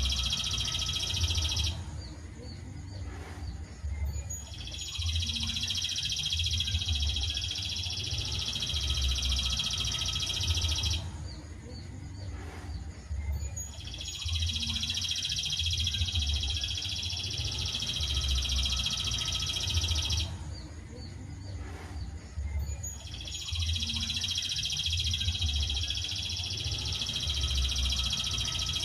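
Songbird singing long, unbroken trilled phrases of about six seconds each, separated by pauses of about three seconds and repeated over and over, as in a loop played to train caged songbirds.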